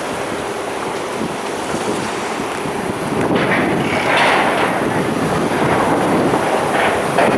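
Wind buffeting the microphone over a steady wash of city street noise, growing louder about three seconds in.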